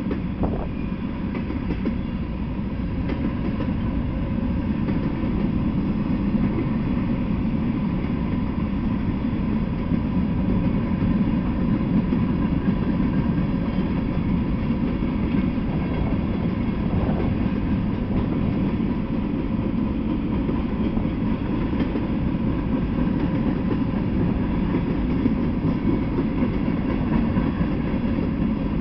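Freight train of tank cars and covered hopper cars rolling past, a steady low rumble of steel wheels on the rails.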